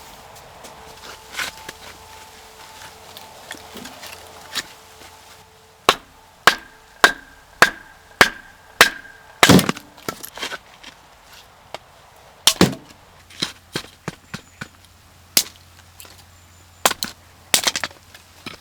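Firewood being chopped with an axe: a run of sharp wooden strikes, about two a second, starting about six seconds in, with two heavier blows among them.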